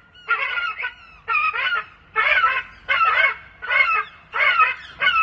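Gull alarm calls: a harsh, pitched call repeated six times at a steady pace, about one every 0.8 seconds. The gulls are giving the alarm at the sight of a Harris hawk, a bird of prey.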